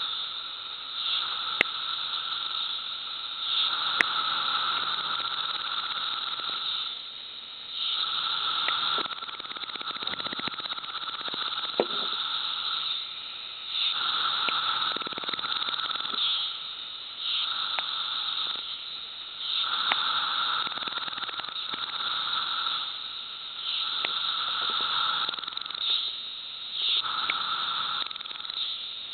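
Magicicada cassini periodical cicadas calling: overlapping buzzing calls that swell and fade every second or two over a steady background chorus.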